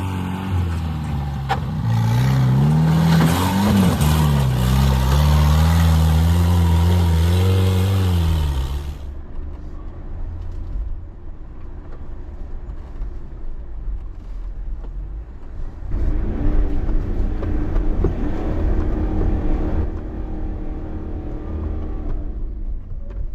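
Vehicle engine revving hard, its pitch climbing and falling several times under a broad rush of noise, which cuts off suddenly about nine seconds in. A second, quieter spell of revving comes later, climbing and then holding.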